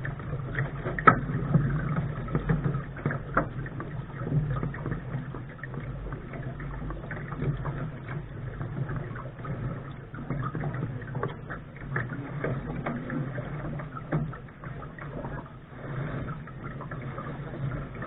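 Water splashing and rushing along the hull of a Lark sailing dinghy under way, over a steady low rumble, with many small knocks and splashes throughout.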